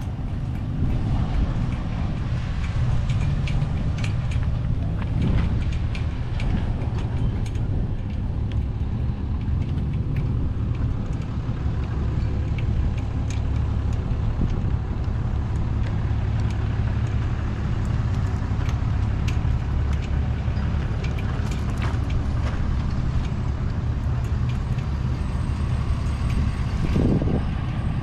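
A vehicle engine running steadily at idle, a low even hum with faint scattered clicks above it.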